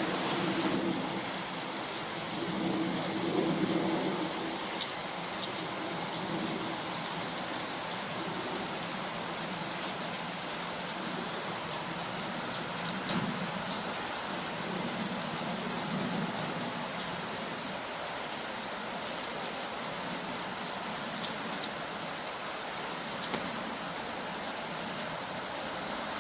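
Steady rain falling in a garden, an even hiss of drops with a few sharp single drop ticks close by. A low rumble swells in the first few seconds and again about two-thirds of the way through.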